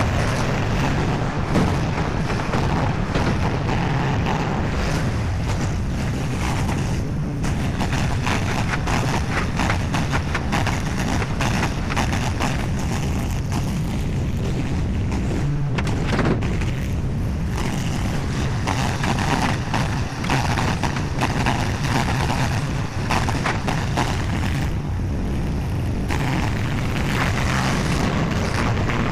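Skid steer engine running hard as the grapple loads concrete chunks, its high end easing off and picking up again a few times as the load changes.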